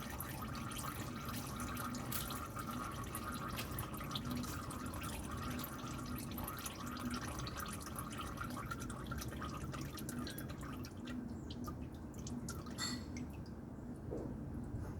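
Used engine oil running and dripping into a drain pan, a steady trickle with scattered drips. The hiss of the stream fades about eleven seconds in.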